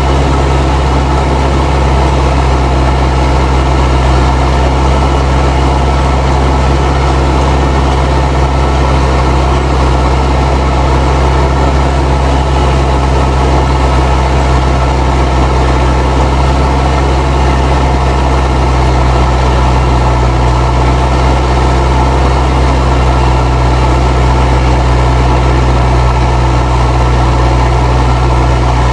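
Fendt 307 Ci tractor's turbo diesel engine running steadily under ploughing load, with its turbo whistling.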